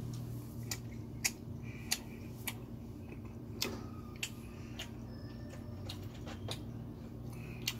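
A mouth chewing sticky glutinous rice cake (chapssaltteok) close to the microphone: scattered sharp wet clicks, about one every half second at first and sparser later.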